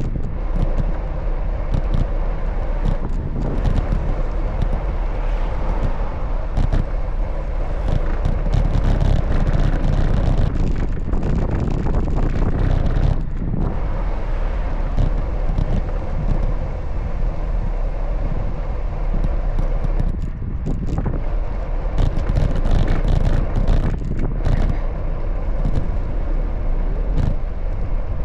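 Steady low rumble of wind and road noise on a camera carried on a moving bicycle, with traffic around it and frequent small rattles and knocks.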